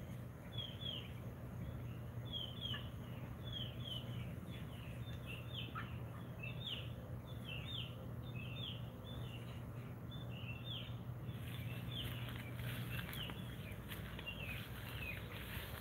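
Bird chirping: a long run of short, downward-sliding chirps, about two a second, over a steady low hum.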